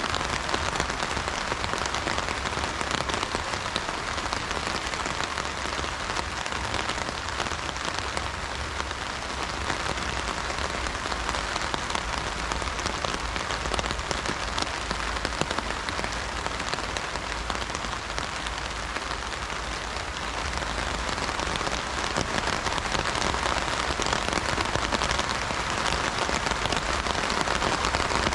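Steady heavy rain pattering on an umbrella overhead, a dense crackle of drops on the fabric, swelling slightly louder in the last third.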